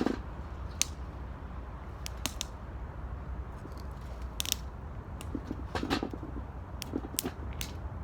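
Wood fire crackling in an 18-litre square metal can: irregular sharp pops over a low steady rumble.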